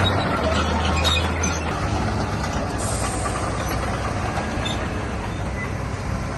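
Heavy diesel earthmoving machinery working: a steady low engine note that shifts slightly lower about two seconds in, under a continuous metallic rattle and clatter.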